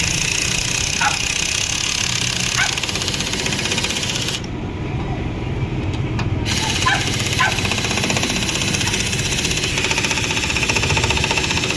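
A motor or engine running steadily with a fast, even pulse.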